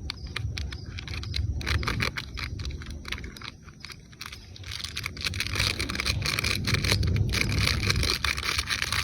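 Campfire crackling and popping in a quick irregular run of sharp snaps, over a low rumble, with a hiss that grows stronger about halfway through.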